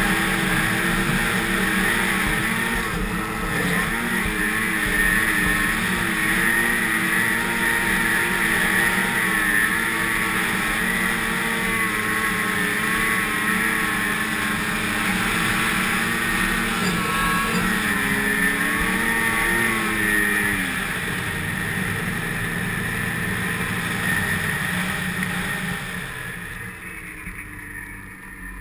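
Snowmobile engine running at a steady speed, its pitch wavering slightly up and down. About two-thirds of the way through the engine note falls away, leaving a quieter steady hiss that fades near the end.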